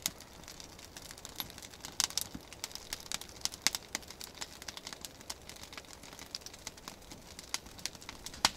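Freshly lit campfire of birch bark and dry aspen kindling crackling, with irregular sharp snaps and pops several times a second.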